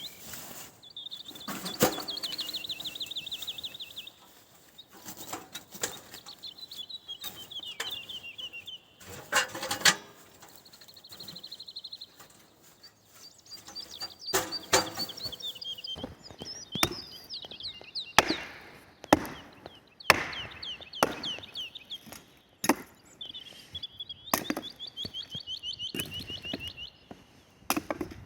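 A songbird singing phrase after phrase of fast trilled notes, over sharp woody knocks and cracks that come irregularly throughout.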